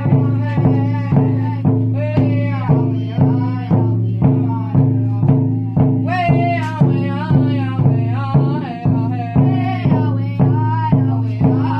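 A drum beaten steadily about twice a second, each beat ringing on, under a high, wavering sung melody.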